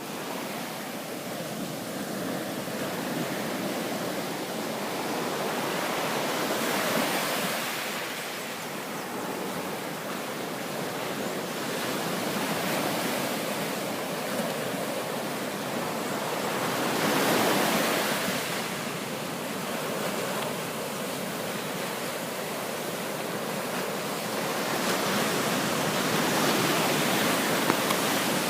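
Ocean surf breaking and washing up a beach, a steady rush that swells louder with each incoming wave, most strongly about seventeen seconds in.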